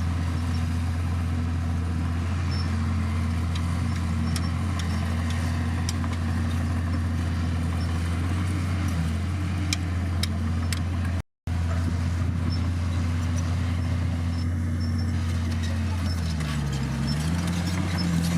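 Bulldozer diesel engine running steadily under work, its pitch wavering slightly and then dipping and rising again near the end. The sound cuts out for an instant about eleven seconds in.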